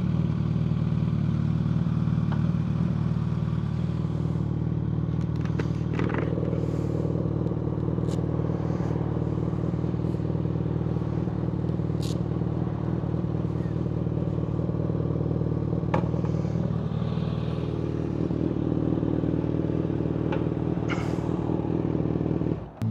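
Kawasaki ZX-6R 636's inline-four running at a steady idle through a Yoshimura full header exhaust, with a few light clicks.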